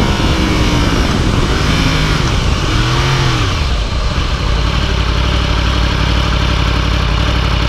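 2015 Yamaha YZF-R1's crossplane inline-four engine, heard from the dash. Engine speed rises and falls a couple of times, then it settles to a steady idle about four seconds in.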